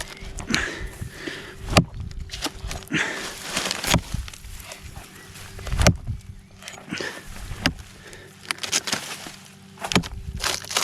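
Footsteps and handling noise with three sharp knocks, about four seconds apart.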